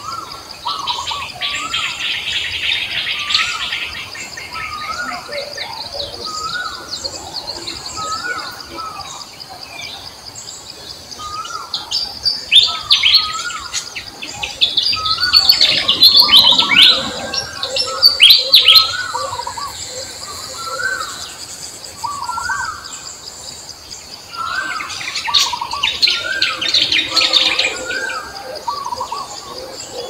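Birds chirping and calling. One bird repeats a short mid-pitched call about every one and a half seconds, while bursts of fast high chirps come and go, loudest around the middle and again near the end. A steady high-pitched hum runs underneath.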